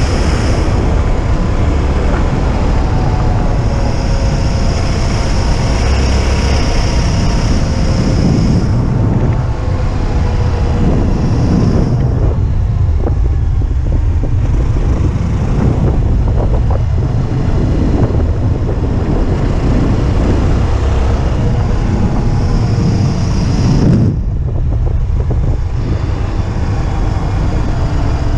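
Motorcycle engine running under way, its note rising and falling as the speed changes, with wind noise on the microphone.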